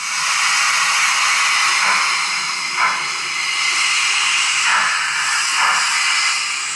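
Steam hiss from the sound decoder of a Roco H0 model of a DR class 01 steam locomotive, played through its small loudspeaker: a steady hiss that swells briefly a few times.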